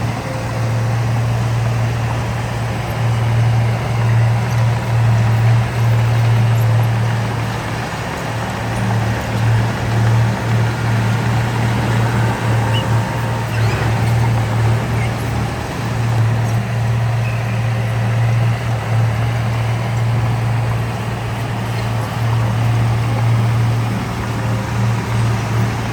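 Heavy diesel engine of earthmoving machinery running steadily, a continuous low drone over mechanical noise.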